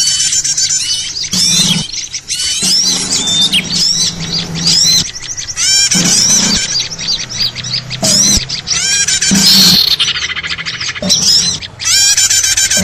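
Many small birds chirping and twittering at once in a dense, busy chorus of quick, high repeated notes: a noisy lure recording used to call small birds in for trapping.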